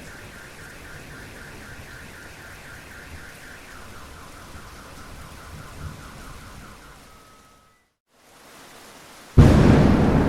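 Steady rain with a rapid repeating chirping in the background that fades out, a brief gap of near silence, then a sudden loud thunderclap near the end that rumbles away slowly.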